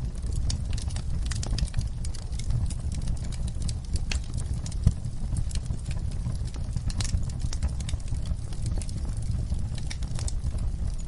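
Wood fire crackling in a fireplace: irregular sharp pops and snaps over a steady low rumble of burning, with one louder pop about five seconds in.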